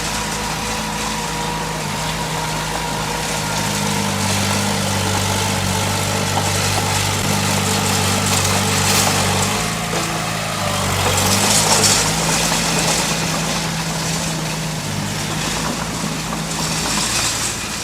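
Diesel engine of heavy earth-moving machinery running steadily, its pitch shifting a few times as the load changes. Louder rushing noise rises over it about halfway through and again near the end.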